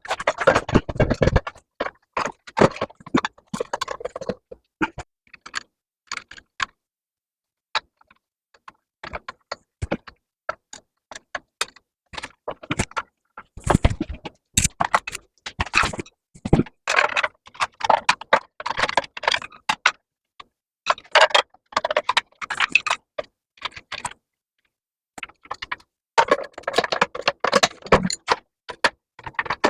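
Metal hand tools and parts clinking and clicking in bursts of rapid ticks, with short pauses between: wrench-and-bolt work on a minibike frame.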